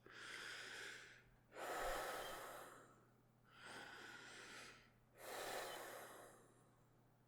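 A man taking two slow, deep breaths, each an inhale followed by a longer exhale, deliberately steadying his nerves.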